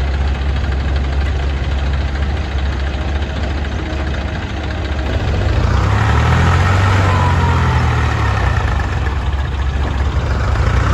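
Heavy diesel engine running steadily, then revving up and getting louder about halfway through, as under load.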